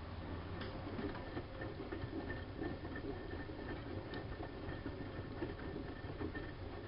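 Siemens Siwamat IQ front-loading washing machine turning its drum during a wash, its motor running with a low hum and scattered clicks for about seven seconds before stopping, one stroke of the back-and-forth wash action.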